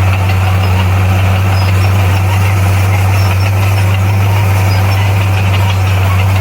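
Bulldozer's diesel engine running at a steady, unchanging speed with a constant low hum.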